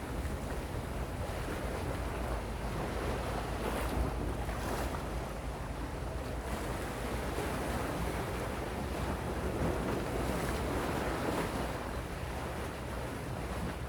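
Gentle sea waves washing in steadily, with a soft swell and fall, and a low wind rumble on the microphone.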